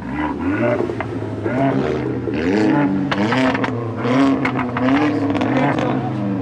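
Car engine being revved again and again, its pitch rising and falling about once a second, with sharp cracks mixed in.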